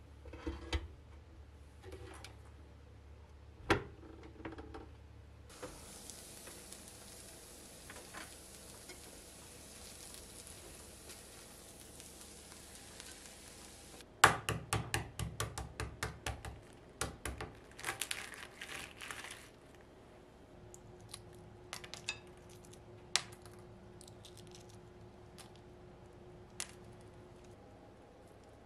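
Household kitchen work: a steady hiss for about eight seconds, then a quick run of sharp clinks and clatters, then a few single knocks.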